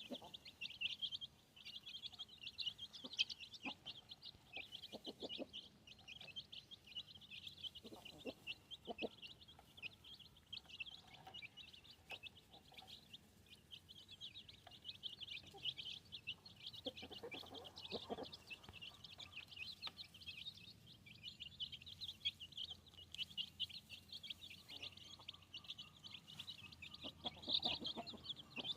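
A group of young chickens peeping continuously, a dense stream of rapid high-pitched peeps, with a few short bursts of lower, softer calls now and then.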